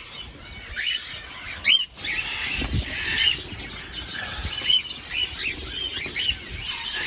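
Cockatiels in an aviary calling over and over, short chirps that rise and fall in pitch, with a low thump about three seconds in.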